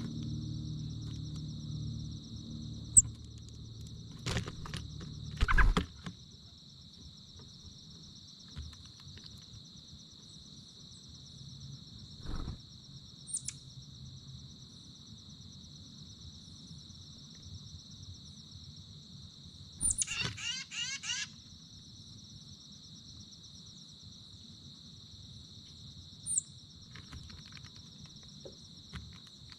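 A steady chorus of chirping insects, with short bird chirps now and then and a brief rapid bird song of quick falling notes about two-thirds of the way through. A few sharp knocks come about five seconds in.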